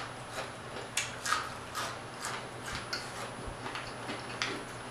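Close-miked chewing of crispy fried croaker: a run of crunching clicks, about two a second, growing fainter after the first few seconds.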